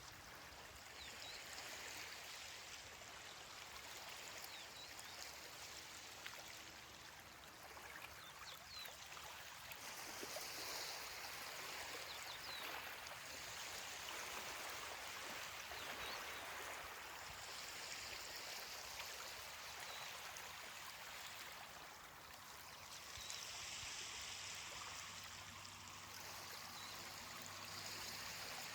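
Ocean waves washing on a beach: a faint, steady hiss of surf that swells and eases slowly as the waves come in.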